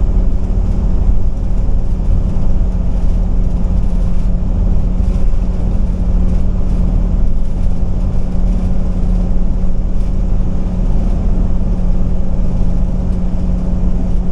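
Ford Triton V10 engine of an E450 motorhome chassis running steadily at highway speed, with road rumble, heard from inside the cab. The drone holds one steady pitch throughout.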